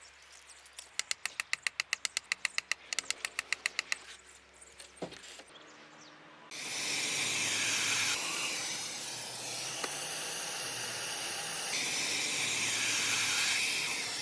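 A fast run of sharp clicks for about three seconds, then a loud, steady hiss that starts suddenly and lasts about eight seconds.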